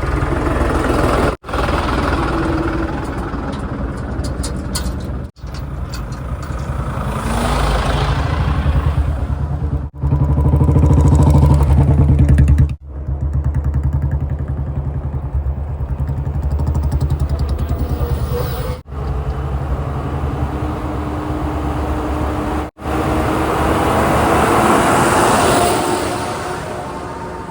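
Heavy diesel engines of earthmoving and haulage vehicles running under load, heard in a string of short clips cut together, with a brief sudden break at each cut. The engine note is deepest and loudest about ten to thirteen seconds in.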